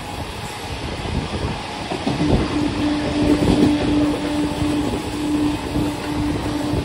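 Two EMU local trains running side by side at speed: a steady rumble and clatter of wheels on the rails. A steady low droning tone joins about two seconds in.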